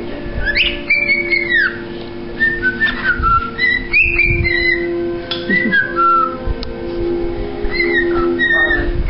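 Pet cockatiel whistling: clusters of short, bright whistled notes that swoop up and down, over a steady low hum.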